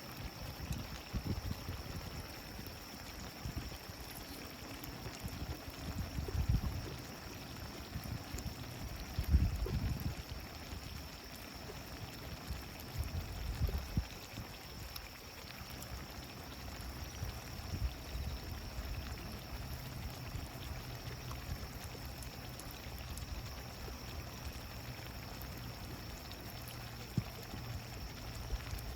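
Steady rushing of flowing water, with a few low rumbles swelling up around six, nine and fourteen seconds in.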